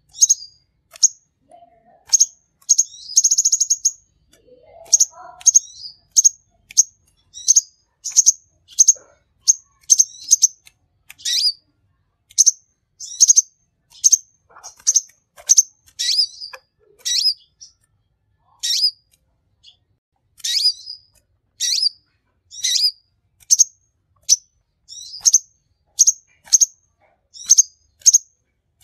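Sunbird ('konin') singing: a long run of short, sharp, high chirps, one to two a second, with a brief buzzy trill about three seconds in.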